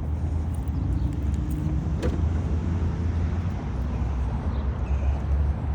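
Steady low vehicle engine rumble at idle, with a single sharp click about two seconds in.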